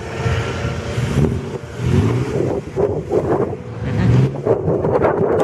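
Vintage racing car engines running, the low engine note swelling and dropping several times, with wind buffeting the microphone.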